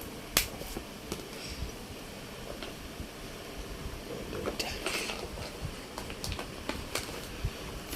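Handling noise of small parts and wires being worked by hand: one sharp click about half a second in, scattered light clicks and taps, and a brief rustle near the middle.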